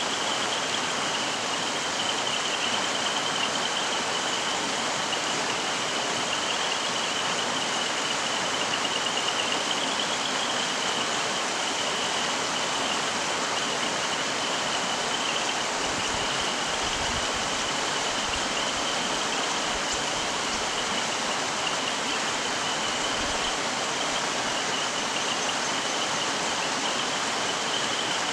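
Mountain stream flowing steadily: an even, continuous rush of running water with a constant high hiss.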